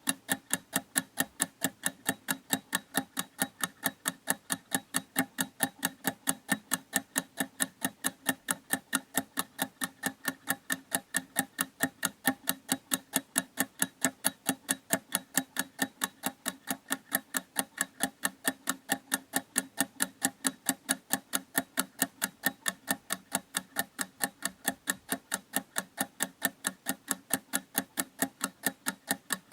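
Clock ticking steadily: sharp, evenly spaced ticks, a few each second, in an unbroken rhythm.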